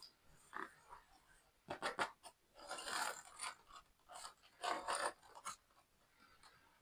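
Hands handling the pieces and packaging of a toy concrete mixer truck kit: groups of small clicks and short rustling scrapes, about two seconds, three seconds and five seconds in.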